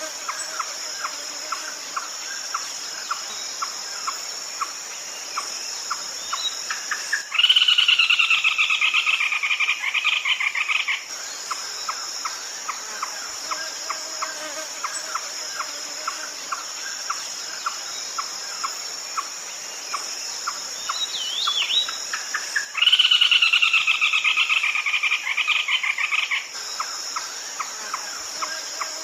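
Red-legged crake giving two loud, rapid pulsed calls of about three and a half seconds each, one about seven seconds in and one about twenty-three seconds in. Underneath runs a steady high insect drone and a regular ticking of about four to five ticks a second.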